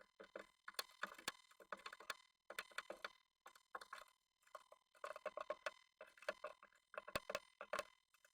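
Japanese tit moving about inside a wooden nest box: irregular runs of quick clicks and scratches as its claws and bill tap and scrape on the wood and nest floor.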